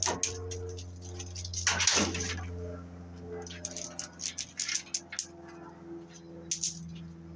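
Light metallic clicks and clatter of armored BX cable being handled and worked, with one louder scraping rush about two seconds in, over a steady low hum.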